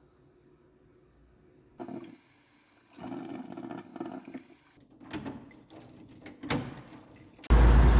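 Faint room tone, then irregular handling noises: small clinks, clicks and rustles of objects being moved. Shortly before the end it switches abruptly to loud, steady traffic noise.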